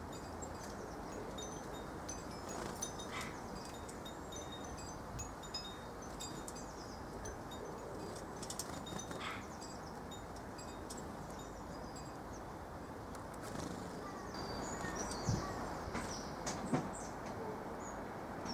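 Small garden birds calling in short, high, scattered notes over a steady faint outdoor hiss, with a few light clicks.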